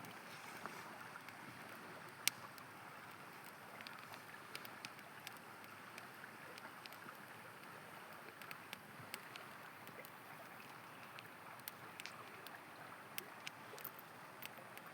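Faint, steady rush of a flowing river with a campfire crackling over it: scattered sharp pops throughout, one louder pop about two seconds in.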